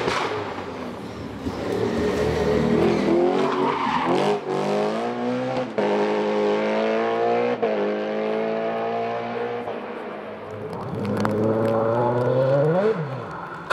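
Hillclimb race car engine at full throttle, the revs climbing and snapping down with each upshift about three times in a row. Near the end the engine rises again and then falls away steeply.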